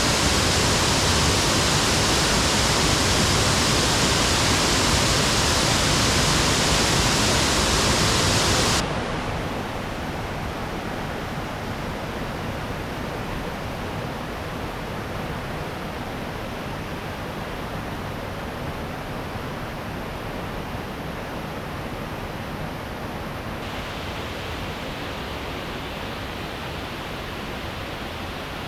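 Steady rush of a waterfall and stream rapids. About nine seconds in it suddenly drops in level and turns duller, then grows brighter again a few seconds before the end.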